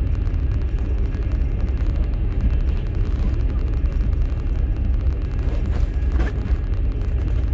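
Steady low rumble of a moving passenger train heard from inside a platskart sleeper carriage: the wheels running on the rails.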